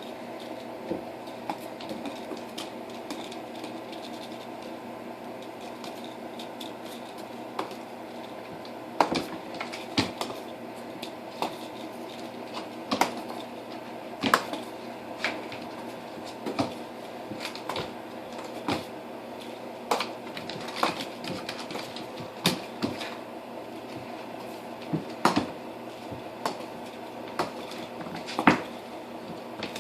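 Irregular clicks and thumps of cats pouncing and landing while they play with a teaser wand, few at first and coming quickly from about nine seconds in. A steady hum runs underneath.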